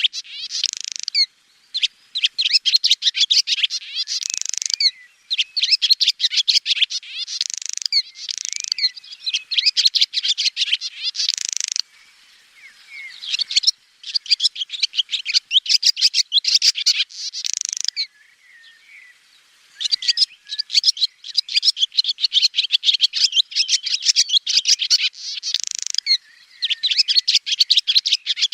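Swallow singing: phrase after phrase of rapid, high twittering, each lasting a few seconds, with short pauses between them.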